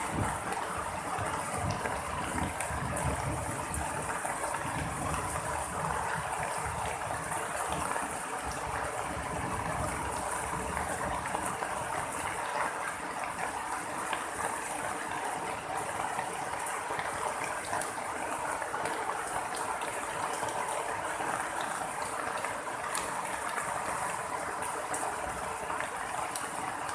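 Heavy tropical rain falling steadily, a constant hiss and patter of rain.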